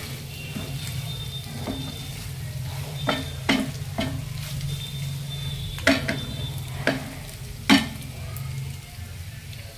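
Pasta frying in a pan while being stirred with a spoon that knocks sharply against the pan about eight times, over a steady low hum.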